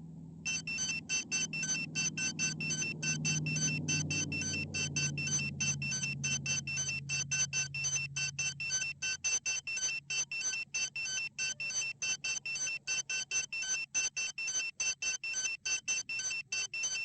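FPV quadcopter's buzzer beeping rapidly and evenly, about five short beeps a second, starting about half a second in, as a drone's lost-model or disarm alarm does. A low hum underneath fades away over the first half.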